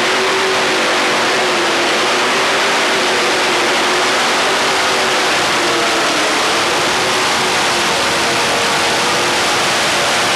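Supercharged engines of a 5,800 lb modified pulling tractor at full throttle during a pull: a loud, steady high-revving scream whose pitch wavers slightly as the tractor drags the sled.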